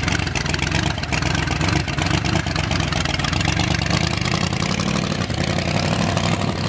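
Hot rod engine idling steadily, with a rapid, even exhaust beat.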